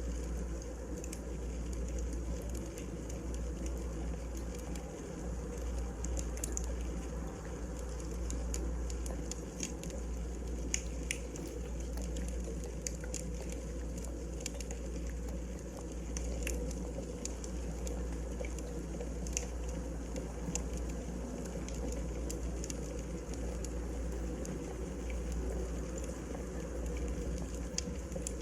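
Wood fire burning in a fireplace: scattered small crackles and pops over a steady low rumble.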